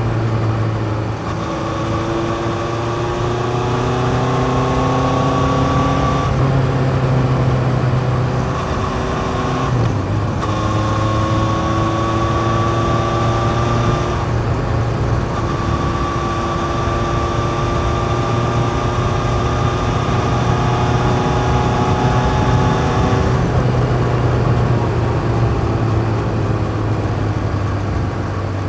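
1981 Yamaha XJ550's air-cooled inline-four, breathing through open K&N pod filters into a 4-into-1 exhaust, pulling up through the gears. The pitch climbs and drops back at each shift several times, then holds a long slow rise and eases off near the end.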